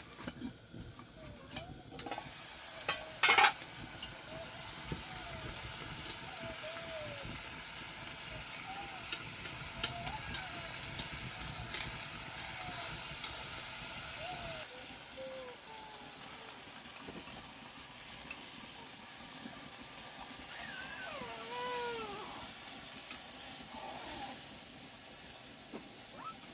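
Food sizzling in a hot pan while it is stirred, with a sharp clatter about three seconds in. The sizzle quietens about halfway through.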